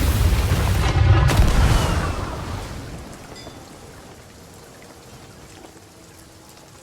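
Thunder rumbling with a few sharp cracks, dying away over about three seconds, leaving a faint steady hiss of rain.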